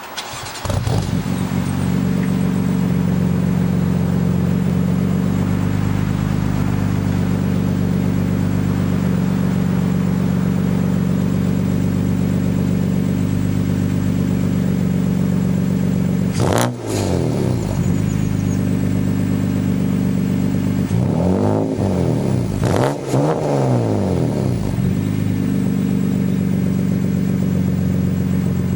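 BMW M4 (F82) twin-turbo inline-six with an Eisenmann GT4 exhaust and Akrapovic mid-pipes idling steadily. It is revved once a bit past halfway, each rev rising and falling back to idle, then twice more in quick succession later on.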